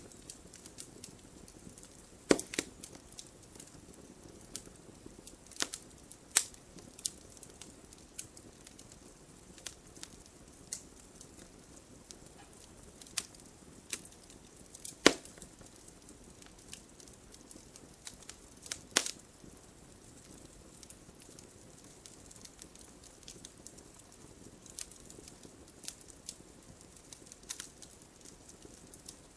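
Wood fire in a fireplace crackling, with a soft steady hiss and irregular sharp pops from the burning logs; the loudest snaps come about two seconds in, around the middle and a few seconds later.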